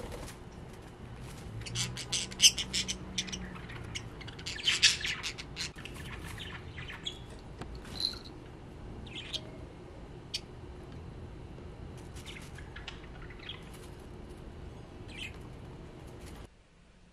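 Budgerigars chirping and chattering: quick runs of high chirps twice in the first few seconds, then scattered single chirps. The sound cuts off abruptly near the end.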